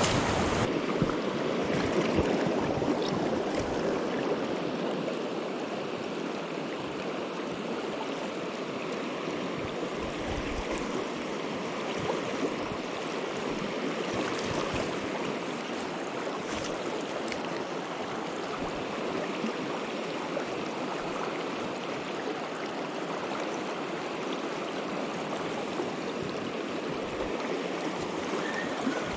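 Flowing stream water: a steady, even rush that runs on without a break.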